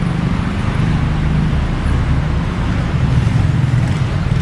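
Street traffic: motor vehicles running on a town street, a steady low rumble of engines with road noise.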